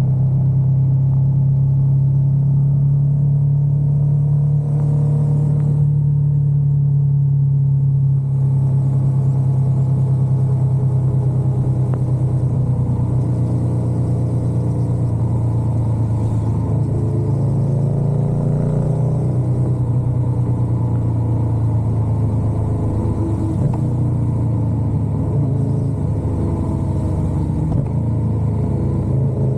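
Motorcycle engine running under way on a road, a steady low drone whose pitch drifts gently up and down with the throttle.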